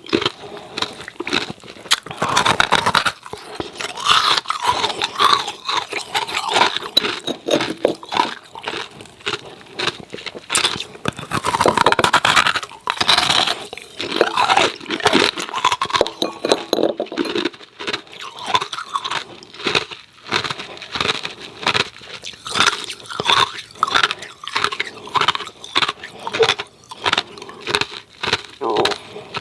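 A person biting and chewing hard ice cubes: continuous, irregular crunching and cracking of ice between the teeth.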